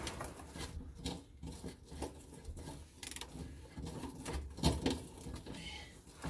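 Irregular clicks and knocks of hand tools working at a rusted bolt, the loudest knock a little under five seconds in.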